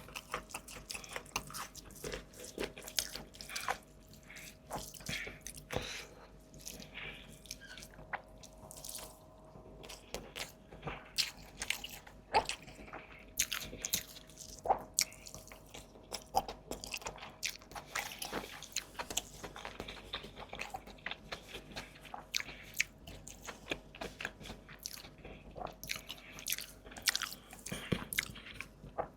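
Close-miked eating: wet chewing and biting with frequent short mouth clicks and smacks, now and then a crunch, as food is chewed.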